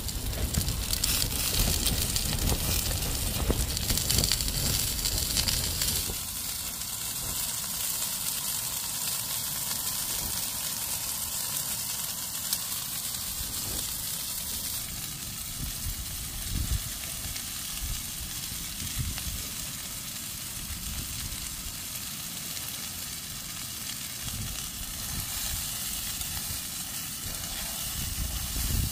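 Chopped pork sausages frying in a pan on a small gas canister stove, a steady sizzle throughout.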